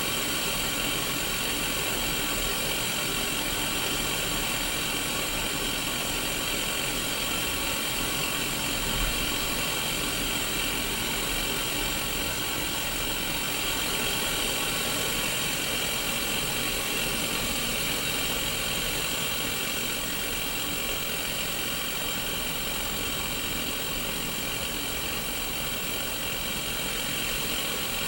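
Steady hiss of static from a Sony Mega Watchman black-and-white mini CRT TV tuned to no station, with a faint low buzz underneath.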